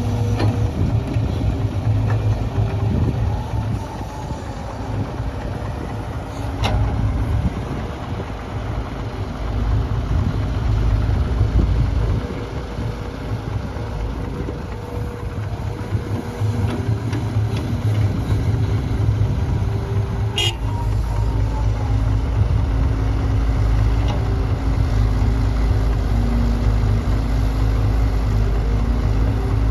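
Diesel engines of an excavator and dump truck running steadily, with a sharp click about seven seconds in and a brief high squeak about twenty seconds in.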